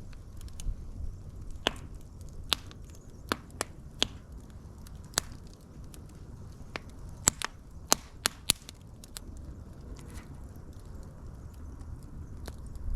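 Wood fire crackling: scattered sharp pops and snaps over a steady low rumble of flames, with a busier run of pops about seven to eight and a half seconds in.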